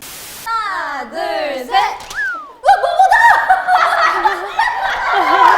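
A young woman's high-pitched, playful vocal noises with sliding pitch and giggling, then laughter from about three seconds in.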